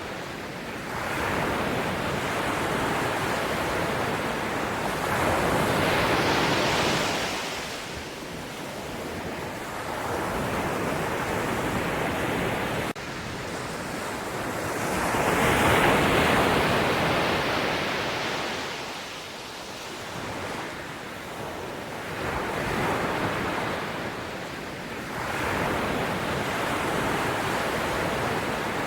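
Sea waves breaking and washing up the shore, in slow surges that swell and fall back, the strongest about six and sixteen seconds in.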